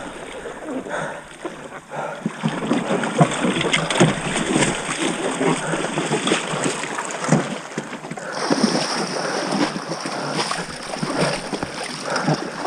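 Paddles splashing and sloshing water as a small boat is worked through a shallow river, an irregular run of quick splashes and knocks.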